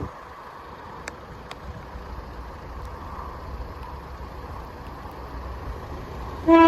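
Steady low rumble with wind on the microphone as a Northern Ireland Railways Class 4000 diesel multiple unit approaches, then near the end its horn sounds loudly on one steady note.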